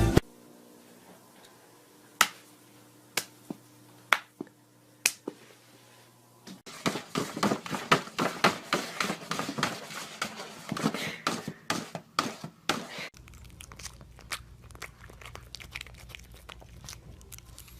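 Crinkling, crunching clicks: a few separate sharp cracks at first, then a dense crackling run for several seconds, then fainter scattered clicks over a low hum.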